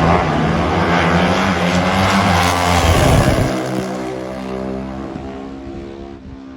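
Pro Stock drag-racing motorcycles at full throttle, loud for about three seconds and then fading steadily as they pull away down the track.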